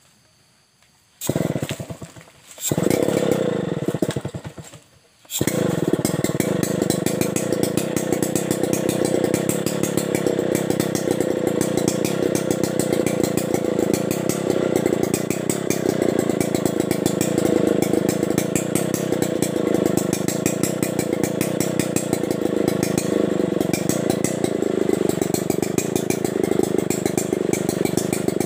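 Stihl 070 two-stroke chainsaw being started: it fires briefly and dies twice, then catches on the third try about five seconds in and runs steadily at idle.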